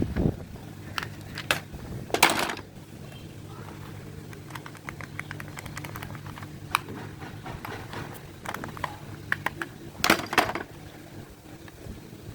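A small motor hums steadily while objects are handled, with scattered clicks and two louder scraping rustles, one about two seconds in and one near the end.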